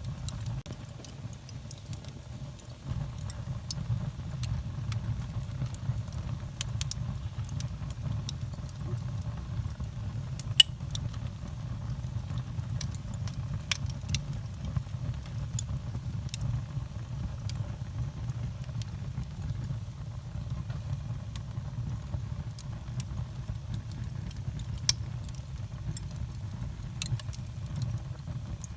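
Fire burning in a fireplace: a steady low rumble of flames with scattered crackles and pops, a sharp pop about ten seconds in and another near the end.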